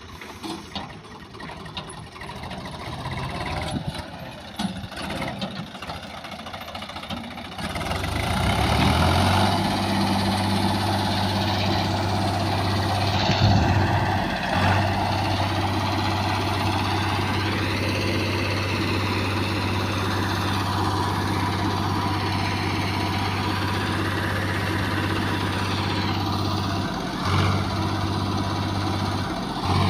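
Heavy diesel engine running. About eight seconds in it becomes much louder and settles into a steady low hum, with a couple of brief dips near the end.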